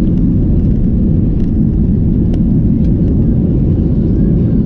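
Steady cabin roar inside an Airbus A320-232 airliner: the low rumble of its IAE V2500 turbofans and airflow over the fuselage, heard from a rear window seat, with a few faint ticks.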